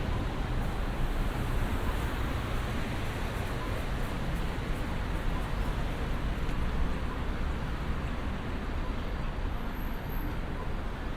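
Steady road traffic noise: a continuous rumble of vehicles, heaviest in the low end, with no single car standing out.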